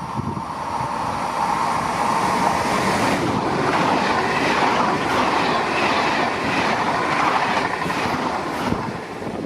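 Train passing close by on the rails, its wheel and rail noise building over the first two seconds, holding strong, then easing off near the end.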